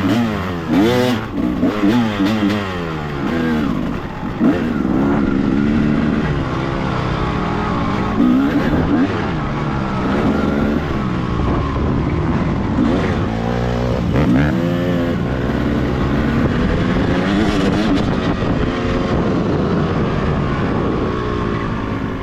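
Dirt bike engine running hard under way, its pitch repeatedly climbing and dropping as the rider revs and shifts through the gears.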